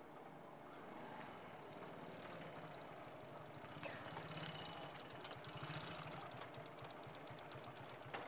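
Faint small motorcycle engine puttering at low speed as the bike rides up and stops, its firing pulse clearest over the second half, with a single click about four seconds in.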